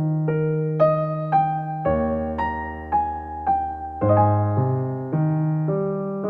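Soft background music: a gentle electric piano playing a slow melody of single notes over held bass notes.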